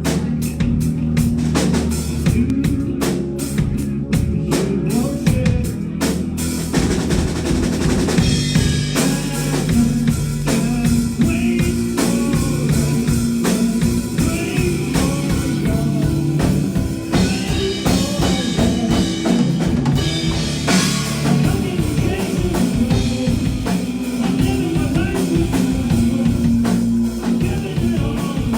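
A live rock band playing, with a full drum kit and a bass line. The drums are sharp and evenly paced at first, and the sound fills out with cymbals and more instruments about eight seconds in.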